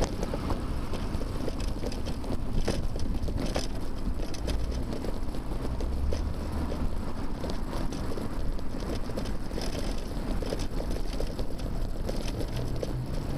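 Steady wind noise and rumble on a bicycle-mounted camera's microphone while riding, with scattered clicks and rattles through the ride.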